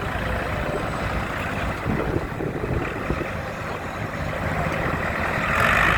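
Ford County timber winch tractor's engine running steadily at idle, with a brief swell of hiss near the end.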